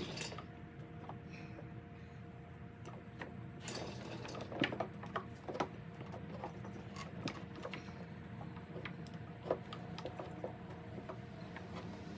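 Scattered light clicks and taps of small leaf blower parts being handled and fitted back together by hand, over a steady low hum.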